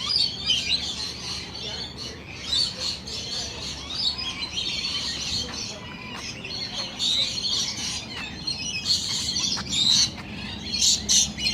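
A flock of birds chirping and chattering, many short high calls overlapping with no break.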